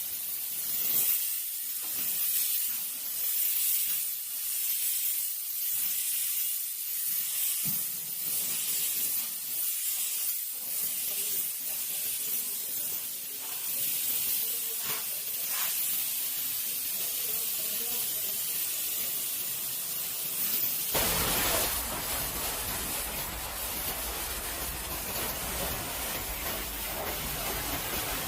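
Pressure washer spraying water at a car, a steady hiss; about three-quarters of the way in it turns fuller, with a low rumble added.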